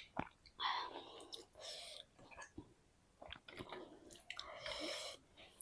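Close-miked chewing and mouth sounds of a person eating a rice meal. The sounds are soft and irregular, with small clicks.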